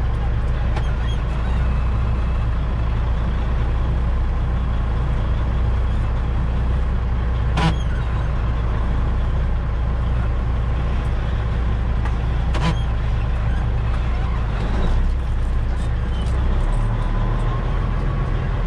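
Semi truck's diesel engine running steadily at low speed, heard from inside the cab while reversing; its low note changes about two-thirds of the way through. Two brief sharp clicks stand out, about a third and two-thirds of the way in.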